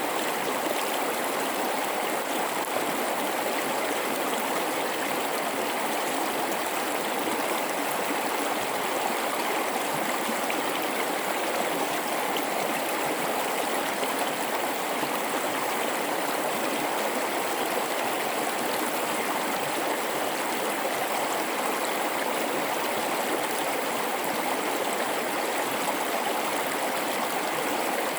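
River water rushing steadily through a gorge, an even, unbroken flow with nothing else standing out.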